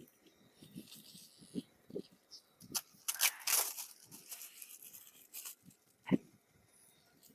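Hands rustling and tearing during food preparation, mostly for a couple of seconds in the middle. Soft knocks are scattered throughout, with one sharper knock about six seconds in.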